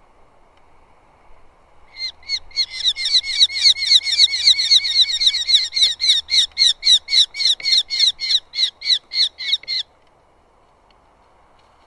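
Eurasian hobby calling: a long run of sharp, rapidly repeated call notes, about three or four a second, starting about two seconds in and stopping abruptly some eight seconds later.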